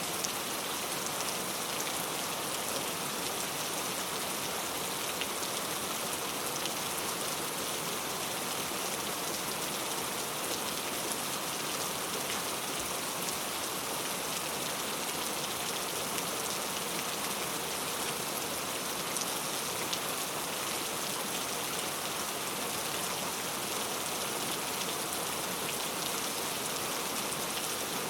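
Steady rain falling, an even dense hiss with faint scattered drop ticks.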